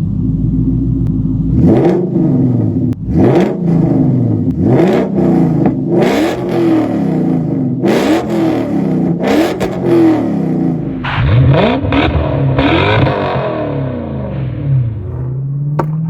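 Toyota UZ-series V8 engine being revved in repeated quick blips, pitch rising and falling about every second and a half, then one longer, harder rev that falls away and settles into a low, slowly rising drone near the end.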